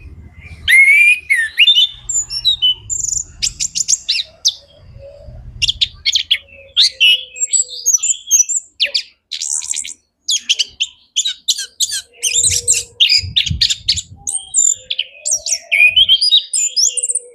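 Chestnut-capped thrush (anis kembang) singing a fast, continuous, varied song of rapid chirps, trills and whistled phrases. A low rumble sits beneath it a few times.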